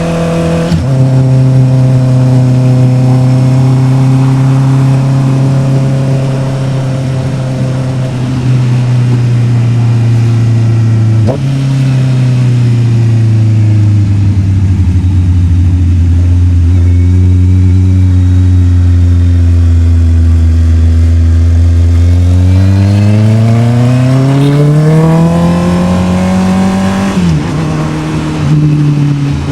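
Honda CB650R's inline-four engine under way. It shifts up about a second in and settles steady, then drops a gear around eleven seconds with a step up in pitch. It slows with the revs falling gradually, then accelerates hard for about five seconds with the pitch climbing, and shifts up again near the end.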